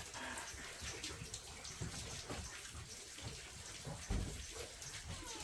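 Water running and splashing, with a dull thump about four seconds in.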